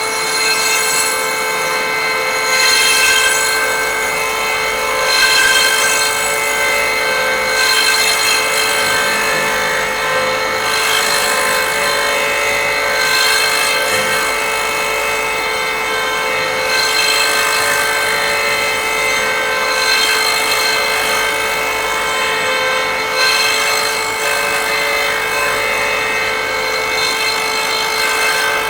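The threading jig's high-speed cutter motor running at a steady pitch while its cutter works through the wooden box's thread, the cutting noise surging and easing every two to three seconds. It is a cleanup pass at the previous cut's depth, taking off the hardened CA glue rather than fresh wood.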